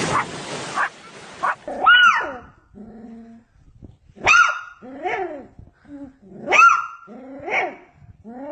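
A dog barking: a run of sharp, loud barks about one to one and a half seconds apart, starting about two seconds in, with lower, shorter calls between them. It opens with a short stretch of hiss-like noise.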